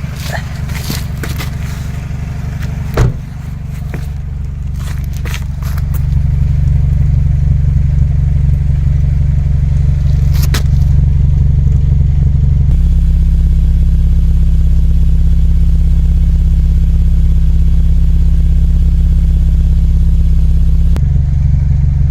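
BMW E46 engine idling steadily through a cheap aftermarket muffler, with a deep, low exhaust note and no revving. The exhaust gets louder about six seconds in. A single sharp knock comes about three seconds in.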